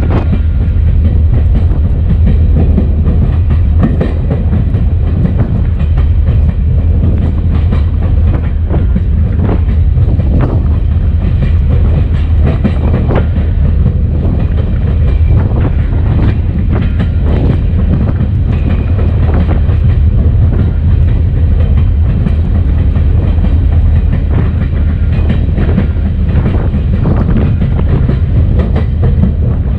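EMD SD40-2 diesel locomotive rolling down the track: a steady low rumble with irregular wheel clicks and knocks over the rail joints.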